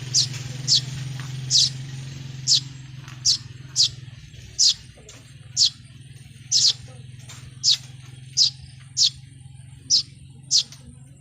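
A bird repeating short, high chirps, each sweeping down in pitch, about fifteen at irregular intervals of half a second to a second. A low steady hum underneath fades out about halfway through.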